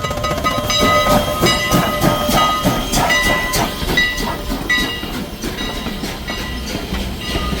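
Heritage passenger train pulling into the station, its wheels clicking and knocking over the rail joints, with hissing. High steady tones come and go over it through the first few seconds.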